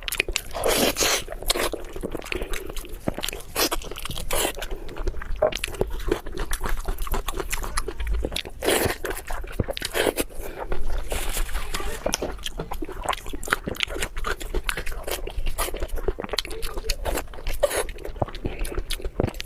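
Close-miked chewing and biting of blood sausage, a dense run of irregular wet mouth clicks and crunches.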